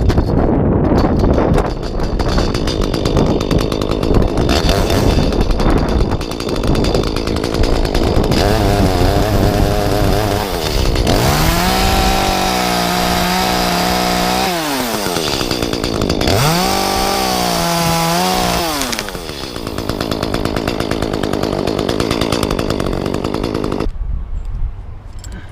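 Echo two-stroke chainsaw running hard on the oak. Its engine pitch holds high and then falls away twice as the throttle is let off, and the saw cuts out near the end.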